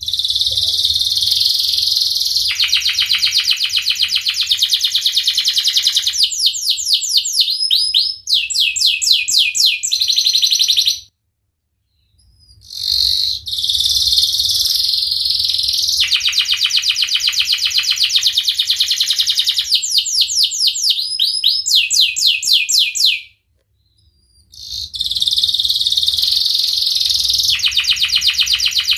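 Domestic canary singing long, full phrases packed with rapid trills and rolls, in three bouts separated by brief pauses about 11 and 23 seconds in.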